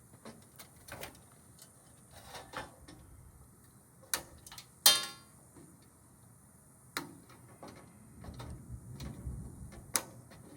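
Scattered clicks and knocks of metal parts being handled while a washer and dryer are scrapped, with one loud metal clank about five seconds in that rings briefly. Toward the end a low rumble of thunder rolls in.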